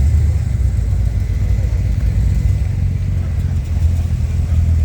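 A car engine running steadily at low revs, a deep, even rumble.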